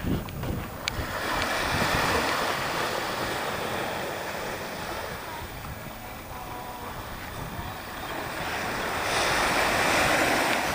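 Waves breaking and washing up the beach, a surge of surf hiss about two seconds in and another building near the end, with wind rumbling on the microphone.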